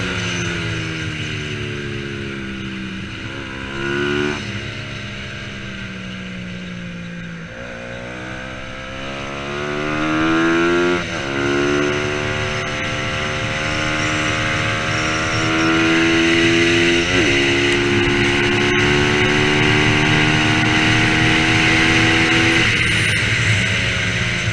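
Bajaj Pulsar 200 NS single-cylinder engine racing: it winds down with a downshift about 4 s in, then accelerates hard through the gears, its pitch dropping at each upshift, runs at high revs, and drops again near the end.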